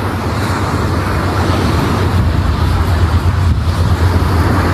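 Steady low rumble with an even rush of noise over it: wind buffeting the microphone over the sound of surf.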